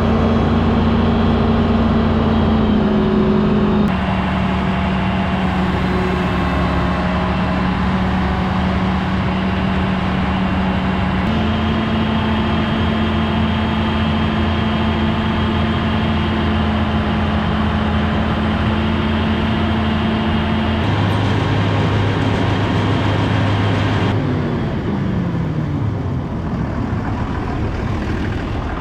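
Diesel tractor engine running steadily under load, its pitch stepping between settings a few times and falling as it slows near the end.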